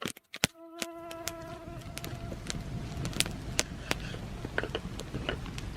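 A flying insect buzzing with a steady hum that stops after about two seconds, over scattered sharp crackles and pops from a freshly lit campfire.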